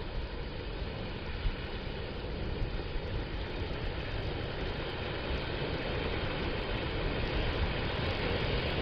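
Gentle ocean surf washing on a sandy beach, with wind rumbling on the microphone; the wash grows a little louder toward the end.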